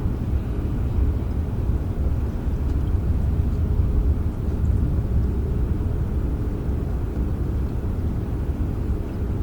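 Steady rain recording dominated by an even, low rumble, with a few faint drop ticks above it.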